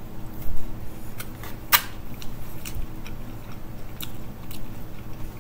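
A person chewing a mouthful of peas and corn, with a few sharp clicks and a couple of low thumps.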